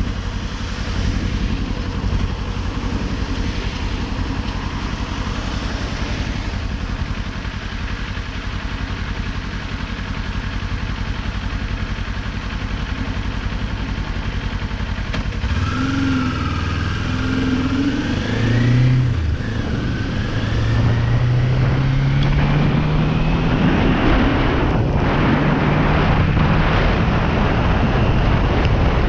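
Kawasaki Ninja 400's parallel-twin engine on the move under heavy wind noise. About halfway through it accelerates, rising in pitch twice with a gear change between, and the wind noise gets louder as speed builds.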